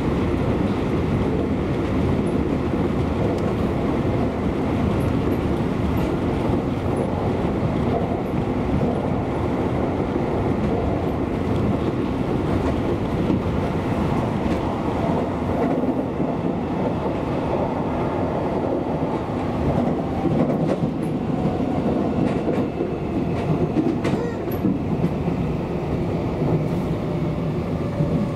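Seibu Railway electric train running along the track, heard from inside the carriage: a steady noise of the wheels on the rails.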